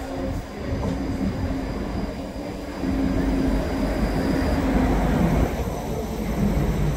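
ScotRail multiple-unit passenger train running past along the platform, wheels rumbling on the rails with a steady low hum. It grows louder from about three seconds in as the carriages come level.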